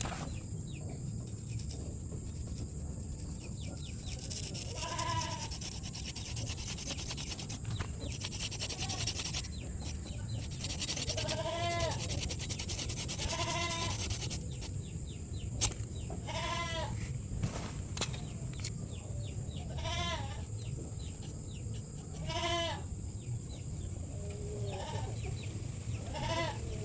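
An animal's short, wavering calls, repeated about every couple of seconds over a steady background hiss.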